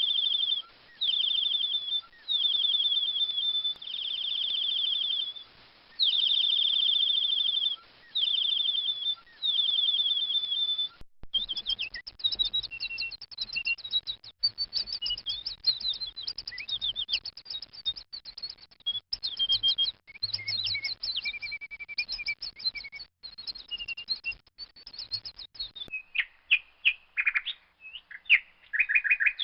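A young bird calling: repeated high, trilled calls about a second long, then about 11 seconds in a sudden change to rapid, dense high chirping that runs on with a few longer notes near the end.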